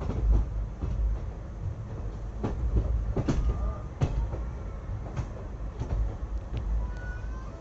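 Moving passenger train heard from on board: a steady low rumble with irregular knocks and rattles from the wheels and coach, and a faint short squeal near the end.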